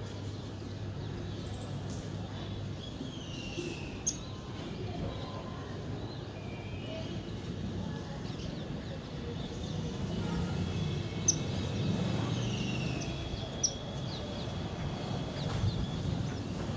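Small birds chirping and calling, with a few short falling calls and several brief sharp chirps, over a steady low background rumble.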